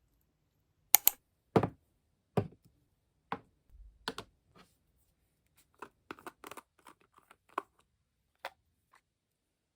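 A string of irregular sharp clicks and taps from objects being handled close by, the loudest about a second in and a quick run of them a little past the middle.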